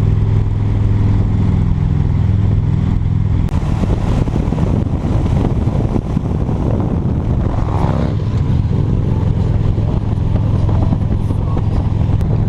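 Motorcycle engine running steadily under way, with road and wind noise that thickens in the middle and eases off again near the end.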